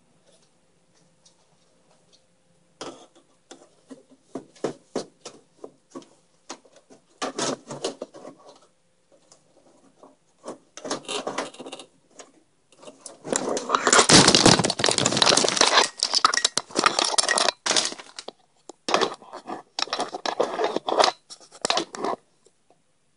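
Computer parts being handled in a PC case: clicks, rattles and scraping of the motherboard and metal case, with a long stretch of dense scraping and rustling about two-thirds of the way through.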